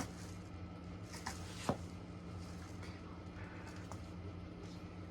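Casablanca Victorian ceiling fan running at its lowest speed in reverse, a steady low motor hum, with two light clicks about a second and a half in.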